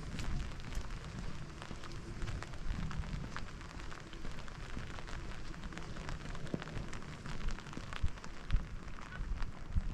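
Rain falling, with many scattered drop ticks over a steady patter and a low rumble underneath.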